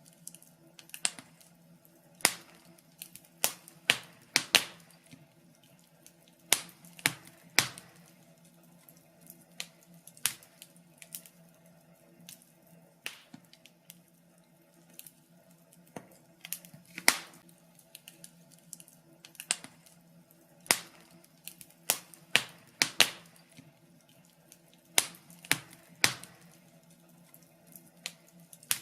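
Wood fire crackling in a fireplace: irregular sharp pops and snaps, roughly one or two a second with uneven gaps, over a faint steady low hum.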